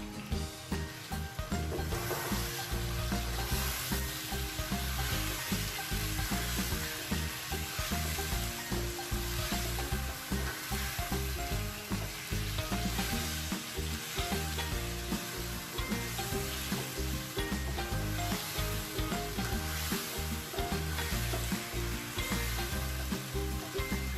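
Potato slices and tomato purée sizzling in hot oil in a nonstick wok, stirred and turned with a slotted spatula; the tomato is cooking down with the spices into the masala.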